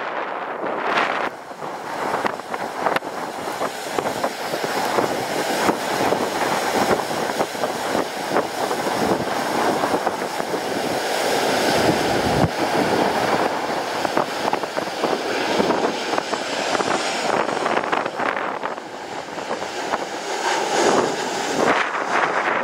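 Jet airliner on landing approach, its engine roar building to a peak about halfway through and then fading as it passes. Gusting wind buffets the microphone.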